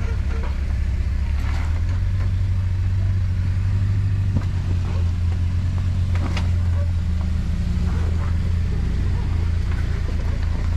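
Jeep Wrangler Rubicon engine running steadily at low revs while crawling a trail, with a few light knocks. The sound cuts off suddenly at the end.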